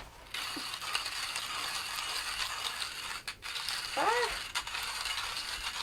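1Zpresso Q2 hand burr grinder being cranked, crushing medium-roast coffee beans with a steady gritty crunching. The grinding pauses briefly about three seconds in.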